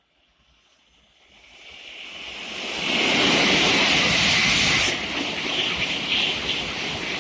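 Tokaido Shinkansen train passing through the station at speed without stopping: a rushing noise builds quickly out of near silence, peaks, and the loud rush of the passing cars holds on, with the hiss in the highest range cutting off suddenly about five seconds in.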